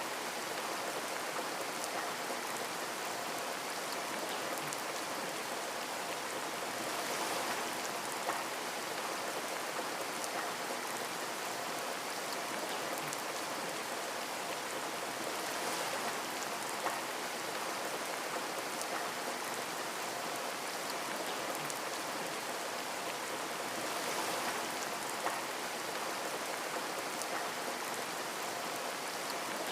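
Steady rain falling on a window pane as a dense, even hiss of drops. It swells slightly about every eight seconds, and a single sharper drop tick follows each swell.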